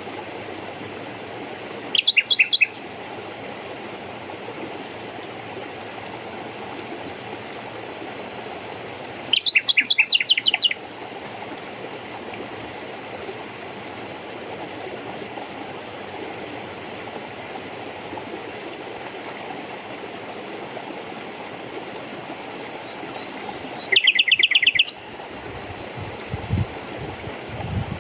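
A songbird sings three times, each song a falling run of high, thin notes ending in a loud, fast trill, over a steady rush of flowing water.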